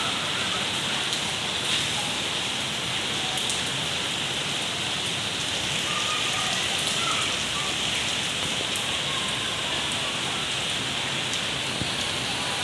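Steady rain falling and pattering on surfaces, with scattered single drops.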